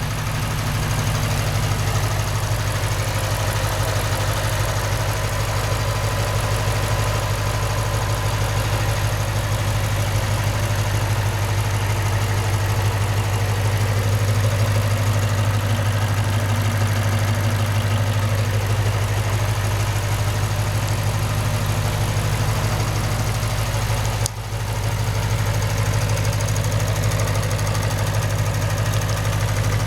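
2008 Lexus IS F's 5.0-litre V8 idling steadily with a ticking at idle, a noise common to the IS F that the owner takes as normal, at 50,000 miles.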